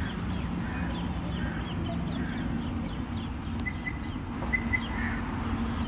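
Small birds chirping: many quick, short falling calls, with a few brief held notes near the end, over a steady low outdoor rumble of traffic.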